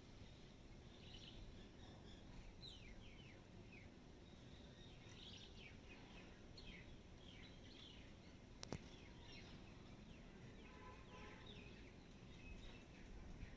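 Faint chirping of small birds, many short quick notes sliding down in pitch, over a low steady rumble, with a single sharp click a little past halfway.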